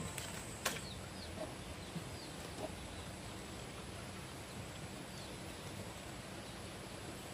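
A few short, faint bird chirps over a steady low background hiss, with one sharp click a little under a second in.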